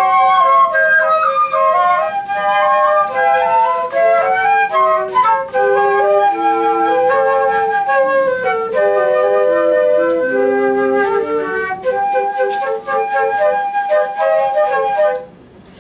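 Flute music: several flutes playing different melodic parts together in held notes. The playing stops shortly before the end.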